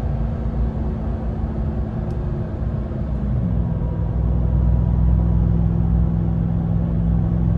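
Ram TRX's supercharged 6.2-litre V8 running steadily at low engine speed while the truck drives, with a low rumble; the engine note steps down slightly about three and a half seconds in.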